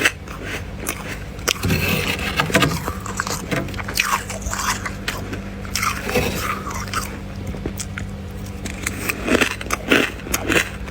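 Freezer frost being bitten and chewed close to the microphone: irregular crisp crunches with some scraping, over a steady low hum.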